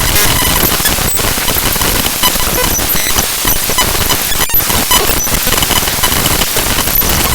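The binary contents of the ffmpeg.exe program file played directly as audio samples: a loud, harsh static with faint steady tones buried in it and a rattling texture, broken by a few brief dropouts.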